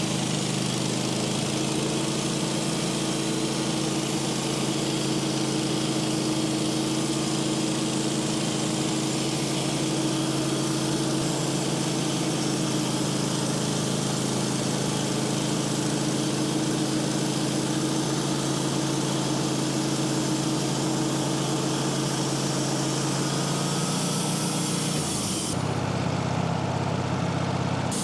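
Sawmill engine running steadily, with an even engine drone and a hiss above it; about 25 seconds in the sound changes, the hiss dropping away while the engine note carries on.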